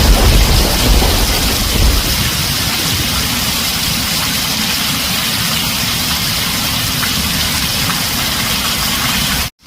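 Heavy rain drumming on a tin roof as a steady hiss, with a low thunder rumble dying away over the first two seconds. The sound cuts out for a moment just before the end.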